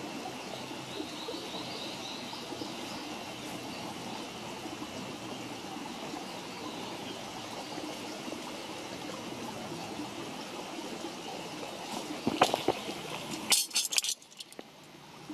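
Wood campfire burning with a steady hiss and crackle. About twelve seconds in comes a cluster of loud, sharp cracks and knocks, then the sound drops briefly quieter.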